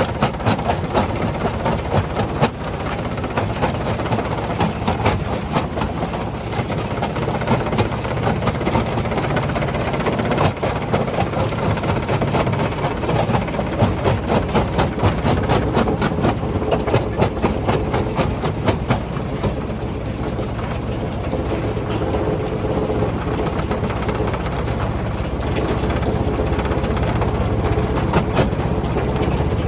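Stone-crushing plant machinery running with a steady low rumble and a dense, rapid clatter of rock. The clatter thins after about twenty seconds, leaving a steadier machine hum.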